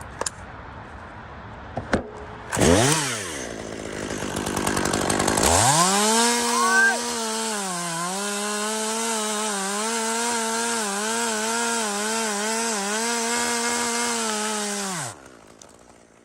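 Two-stroke chainsaw revving briefly, then running at full speed through the back cut in a spruce trunk. Its pitch dips and wavers as the chain bogs under load. It winds down and stops about 15 seconds in.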